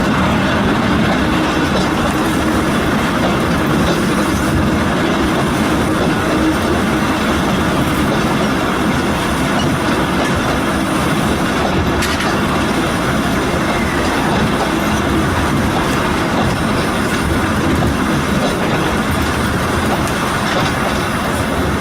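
Volk's Electric Railway car running along its track: a steady, even noise of the electric car's wheels on the rails throughout.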